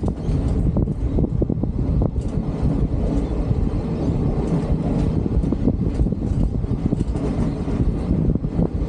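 Solar-powered heritage railcar running along the track at speed: a steady rumble of wheels on rail with frequent quick clicks and rattles.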